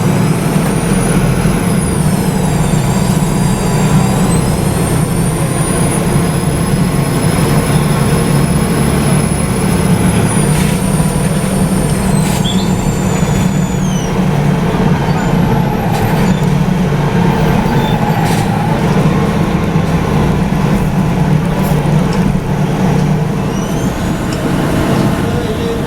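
Volvo B7RLE city bus heard from the rear seat: the rear diesel engine's steady low drone, with a thin high-pitched whistle that rises and falls in pitch through the first half, dies away about halfway through and starts rising again near the end. The whistle is the long-standing odd noise of this bus, which the rider thinks may be the turbo.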